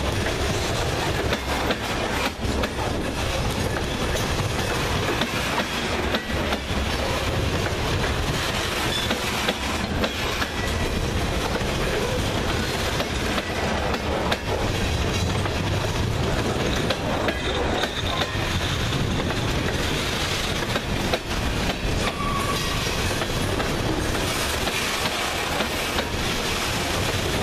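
Freight train's covered hopper cars rolling past close by: a steady rumble of steel wheels on rail, with the clickety-clack of the trucks passing over rail joints.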